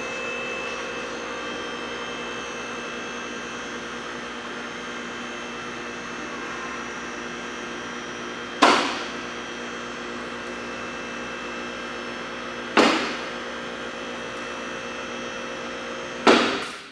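Electric motor of a hydraulic car lift running with a steady hum while raising a car, with three loud metal clunks about four seconds apart. The motor cuts off near the end as the lift stops.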